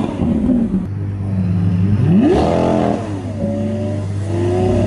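Lamborghini Aventador S's 6.5-litre V12 idling with throttle blips: one sharp rev about two seconds in that climbs and falls back quickly, then a smaller rev near the end.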